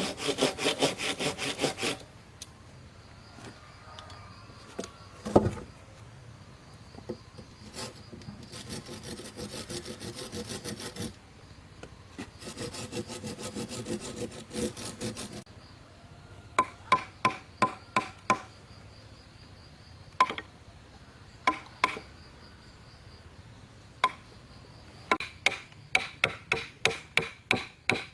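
Hand saw cutting through wood in fast, even strokes that stop about two seconds in, followed by two spells of slower, softer sawing strokes. In the second half come runs of sharp knocks on wood, several a second.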